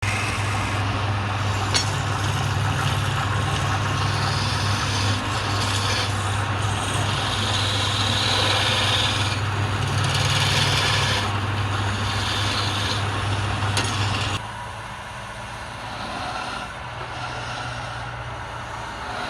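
Wood lathe running with a steady motor hum and a scraping noise from a tool cutting the spinning wood. About fourteen seconds in it becomes suddenly quieter.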